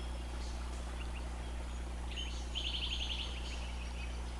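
Small birds chirping, with one rapid trill a little past halfway, over a steady low hum.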